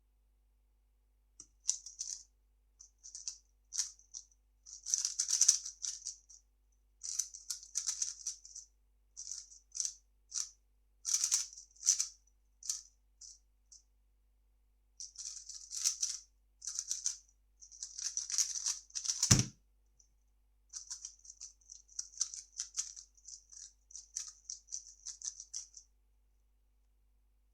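A 3x3 speedcube being turned fast in bursts, a rapid clicking rattle of plastic layers, with short pauses between runs of turns. About two-thirds of the way through comes a single dull thump.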